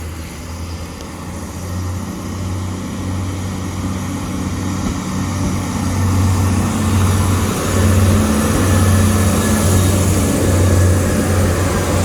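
Diesel train approaching, growing steadily louder, with a pulsing low engine hum under rising rail and wheel noise.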